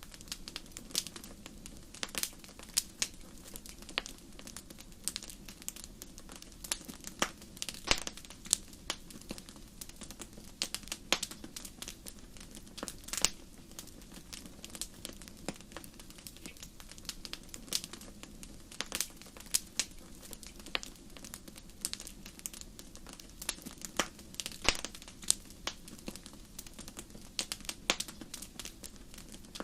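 Wood fire crackling in a fireplace: irregular sharp pops and snaps scattered throughout, over a steady low rumble of burning.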